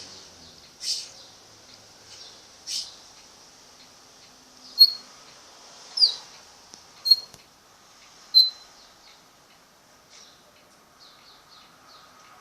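Parrot giving short, shrill, high-pitched calls, about seven of them, roughly one every second or so over the first eight or nine seconds, the loudest in the middle. The last few seconds hold only a faint high hiss.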